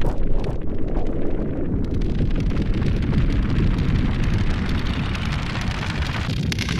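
Erica Synths Perkons HD-01 drum synthesizer playing a dense, noisy, rumbling low-end texture with no clear beat. A brighter hiss comes in near the end.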